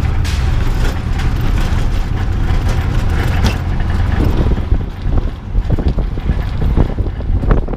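Wind buffeting the microphone: a loud, steady low rumble with scattered short crackles.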